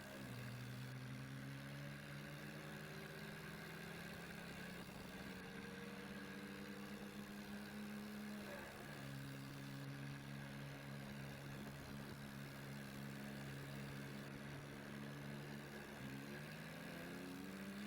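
Mahindra Arjun tractor's diesel engine running. Its pitch drifts slowly and jumps up or down a few times as the revs change.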